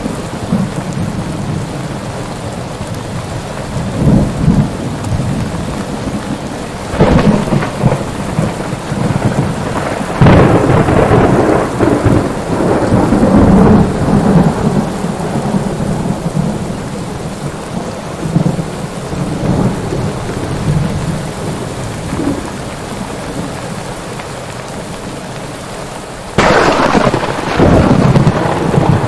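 Steady heavy rain with rolling thunder: rumbles build several times, the longest from about ten to fifteen seconds in, and a sudden loud crack of thunder breaks about 26 seconds in.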